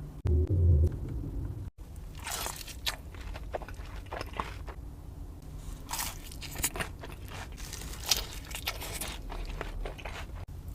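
Crunchy bites and chewing into a fried hot chicken tender, a run of short crisp crackles, after a low bump about half a second in.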